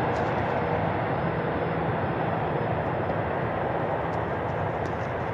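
Jet airliner engines running, a steady noise with a low hum that slowly fades.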